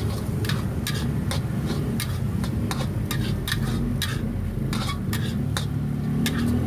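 Metal spatula clacking and scraping against a wok during stir-frying: irregular sharp knocks, several a second, over a steady low rumble.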